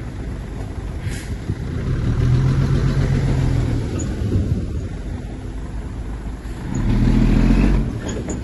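Heavy diesel engine of earthmoving machinery running, working harder twice, about two seconds in and again near the end, when it gets louder.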